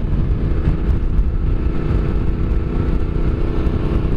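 Yamaha Ténéré 700's parallel-twin engine running at a steady cruise, heard under a heavy low wind rumble on the rider's microphone.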